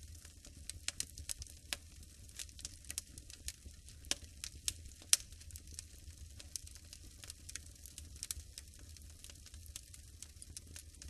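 Wood fire crackling in a fireplace: irregular sharp snaps and pops over a low steady rumble, with one louder pop about five seconds in.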